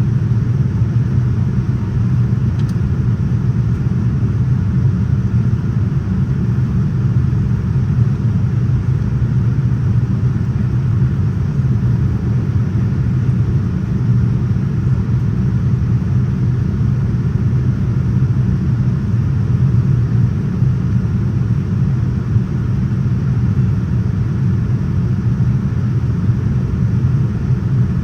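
Cabin noise of a Boeing 787-9 in flight: a steady low rumble of engines and airflow, unchanging throughout.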